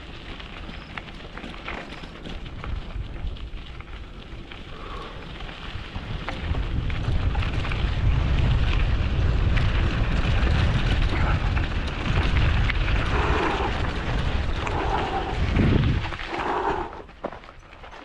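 Wind buffeting the microphone over the rolling noise of a mountain bike in motion. It grows much louder about six seconds in and drops away about sixteen seconds in as the ride slows.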